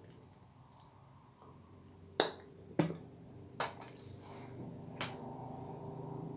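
Eating sounds: four sharp mouth smacks over a few seconds, the first the loudest, over a low steady hum.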